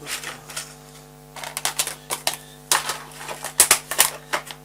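Clusters of sharp clicks and rattles from a steel drill bit being handled, taken from its box and brought to the drill chuck, over a steady low hum.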